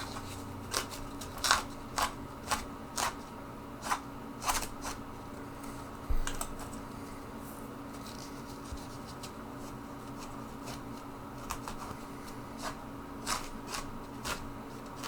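A sponge wiped in short scratchy strokes over an HO-scale model freight car's body, lifting off a wet weathering wash. The strokes come close together in the first half and grow sparser later, over a steady low hum.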